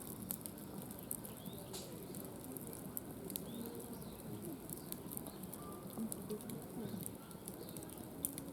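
Wood campfire crackling, with scattered sharp pops at irregular intervals.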